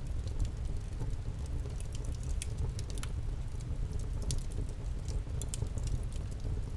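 Wood campfire crackling, with frequent short sharp pops and snaps over a steady low rumble.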